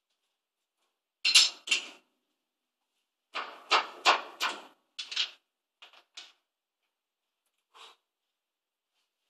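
A series of sharp knocks and clatters from tools or metal parts being handled at a manual lathe, with no motor running. Two loud knocks come about a second in, then a quick run of several more between about three and five seconds, then a few fainter ones.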